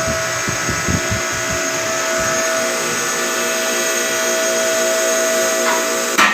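A steady mechanical whine holding one clear high tone over a stack of even tones, with irregular low knocks in the first two seconds and two sharp clacks near the end.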